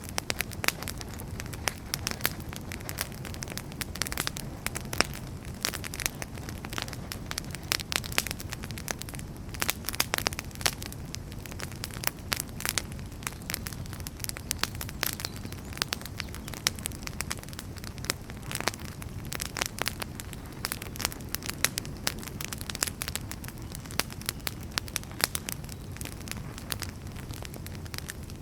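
Wood fire burning in a fireplace: a steady low rumble of flames with irregular sharp crackles and pops from the burning firewood.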